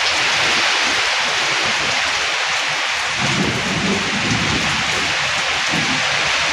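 Heavy rain pouring down in a storm as a steady, loud hiss, with a low rumble joining in from about halfway through.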